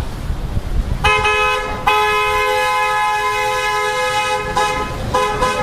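Car horn honking in two notes at once. A short blast comes about a second in, then a long held blast of about two and a half seconds, then short toots near the end.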